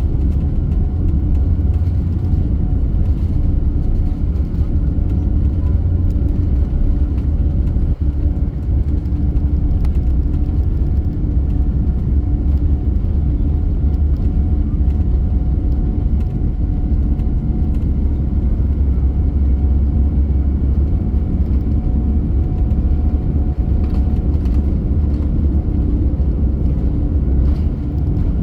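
Airliner cabin noise: the steady, loud rumble of the jet engines and airflow heard from a passenger seat, with a faint steady hum over it.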